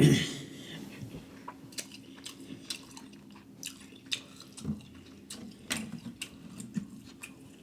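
Wet chewing and lip smacking up close: irregular sticky clicks and smacks, a few each second.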